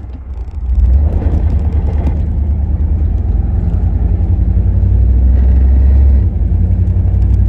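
1990 GMC 1500 pickup's engine running as the truck drives, getting louder about a second in as it pulls harder, with a low steady rumble. The engine has a slight knock and a tick whose cause the driver doesn't know.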